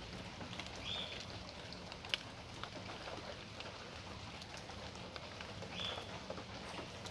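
Rain falling in a backyard: a steady patter with scattered sharp drip clicks of drops hitting surfaces. Two short high chirps sound, about a second in and again near six seconds.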